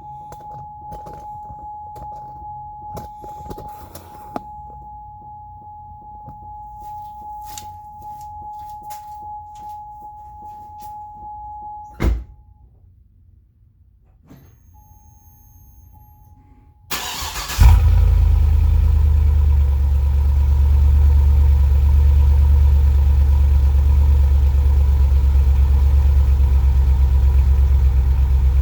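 A steady electronic chime tone with scattered clicks, ended about twelve seconds in by a heavy thud; after a short second chime, the straight-piped 6.0 L LS2 V8 of a 2007 Trailblazer SS cranks and fires about seventeen seconds in, then runs at a loud, steady cold idle.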